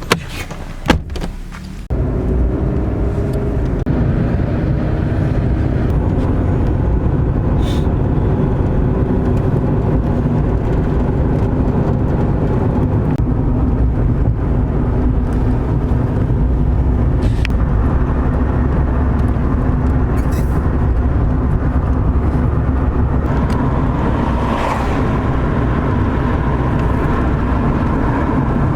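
A few clicks, then about two seconds in a car's steady engine and road noise starts abruptly and runs on evenly, with a low drone and a faint engine hum.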